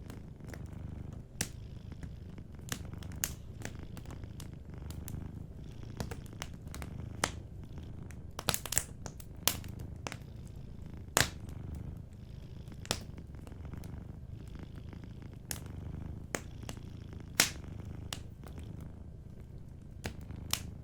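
Cat purring steadily in a low rumble, over a wood fire crackling with scattered sharp pops, the loudest about eleven and seventeen seconds in.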